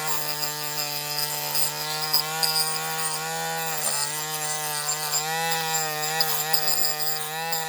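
Small electric rotary tool running steadily with a wire brush, its whine dipping briefly in pitch a few times as the brush is pressed onto the bare die-cast metal, with a scratchy brushing noise over it. The brush is scouring corrosion, grime and paint flakes off the freshly stripped alloy body.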